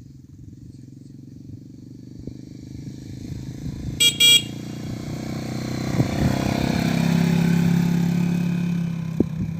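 Motorcycle engine running and growing steadily louder as it comes closer, with two short horn beeps about four seconds in.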